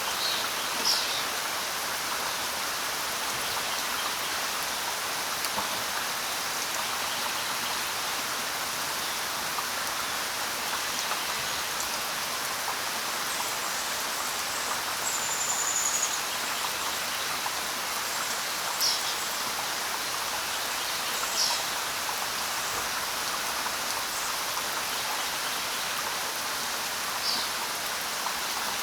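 Steady rain falling, an even hiss with no let-up. A few short high chirps sound over it: about a second in, twice around the two-thirds mark, and once near the end.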